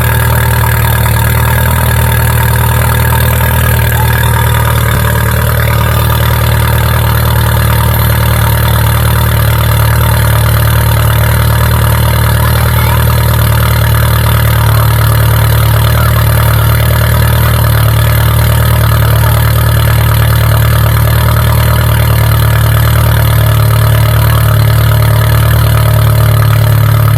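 Peugeot 207 GT engine idling steadily just after a cold start, through an exhaust with the centre muffler removed.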